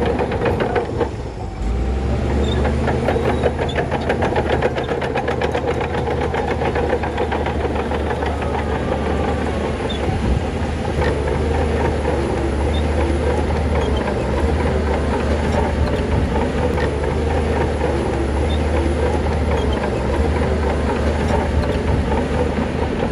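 Heavy diesel engine of a Shantui bulldozer running steadily under load, with mechanical clatter. The clatter is quickest in the first second or so, and the engine dips briefly just after.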